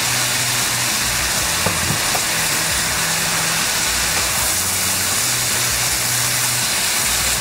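Minced meat filling sizzling steadily in a hot nonstick frying pan as it is stirred with a wooden spatula, over a low hum that comes and goes.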